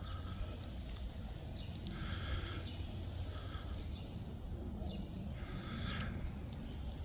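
A bird calling three times with harsh, rasping calls of about half a second each, over a steady low rumble, with a few faint high chirps.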